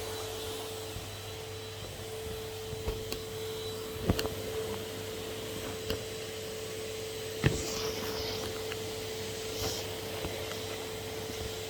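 Henry HVR200 620 W cylinder vacuum cleaner running steadily with a constant whine, with a few sharp knocks, the loudest about four and seven and a half seconds in.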